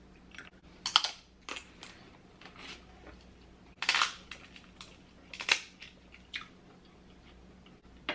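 Crab shells being cracked and broken apart by hand: a string of sharp cracks and snaps, loudest about a second in, around four seconds in and about five and a half seconds in.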